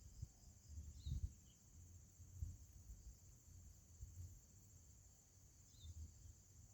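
Faint outdoor ambience: a steady high insect trill with low rumbling noise underneath. Two brief high chirps come about a second in and near the end. No dove cooing is heard.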